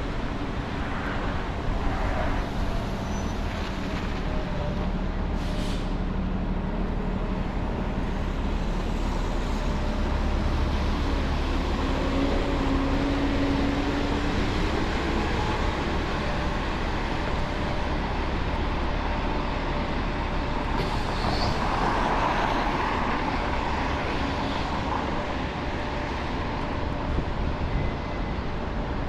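Street traffic on a wet downtown street: cars, trucks and buses running and passing, a steady wash of road noise with a low rumble and the occasional engine hum rising and fading.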